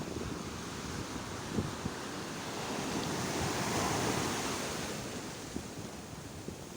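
Sea waves breaking on a shore: a steady surf wash that swells to a crest about halfway through and recedes, with wind buffeting the microphone in short low thumps.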